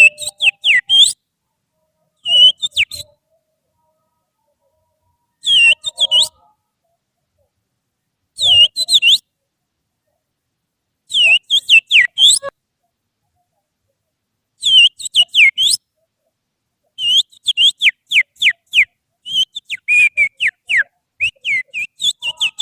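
Finger whistling imitating the song of an oriental magpie-robin (kacer): short phrases of sharp, falling whistled notes broken by pauses of a second or two. Toward the end the phrases come closer together, as quicker runs of falling notes.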